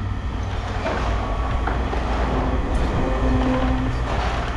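Steady low rumble of running machinery, with a few faint clicks over it.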